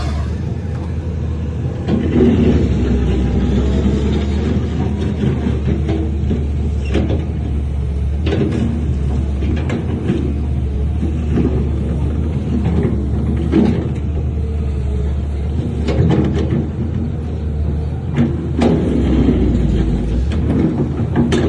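Heavy diesel earthmoving machine running under load: a steady low engine drone that gets louder about two seconds in, with scattered knocks and clanks.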